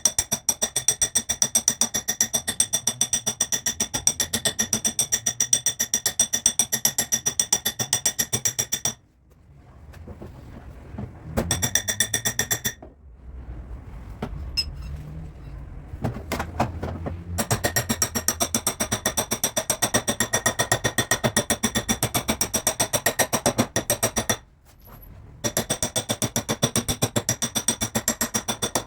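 Rapid, rhythmic hammer taps on a car's sheet-steel body panel, each strike leaving the metal ringing at the same high pitches. Bursts of several taps a second stop briefly three times, once for about three seconds.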